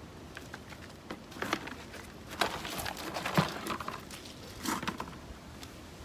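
Potting soil rustling and crackling as it is dug through and pushed about to turn up potatoes, in a few irregular bursts of scraping and clicks.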